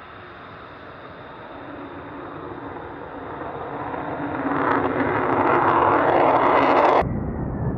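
Jet aircraft engine noise growing steadily louder, then cut off abruptly about seven seconds in and replaced by a lower rumble.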